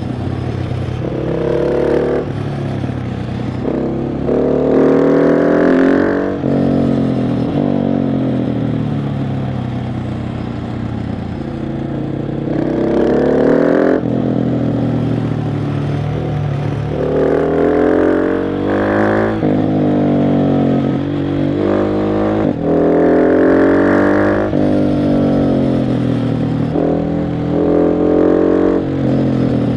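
KTM 690 SMC R's single-cylinder engine under way, its revs climbing in about five surges of acceleration. Each surge ends in a sudden drop in pitch as the throttle closes or a gear changes, followed by slower stretches on part throttle.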